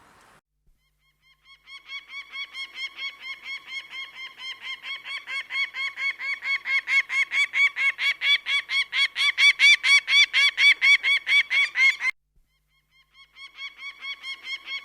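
A large bird calling a long series of short, hooked, pitched notes, about four a second, growing louder and then stopping abruptly about twelve seconds in; a second, quieter series begins near the end.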